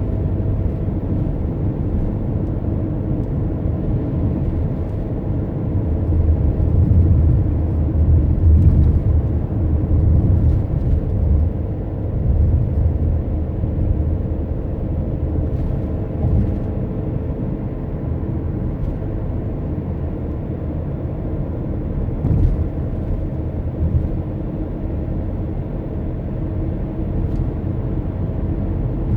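A car on the move: steady low road and engine rumble, growing louder for a few seconds in the middle, then easing back.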